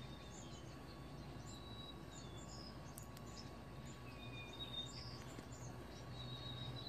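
Faint background: scattered short, high bird chirps over a low, steady hum.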